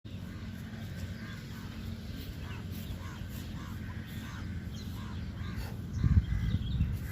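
Birds calling in a quick series of short calls, about two a second, over a steady low rumble, with a louder low rumble about six seconds in.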